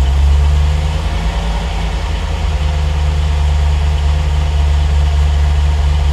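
Triumph TR8's Rover V8 idling during warm-up from a cold start, its idle dipping slightly about a second in and then picking back up. The engine is running a little lean on its Megasquirt fuel-injection tune.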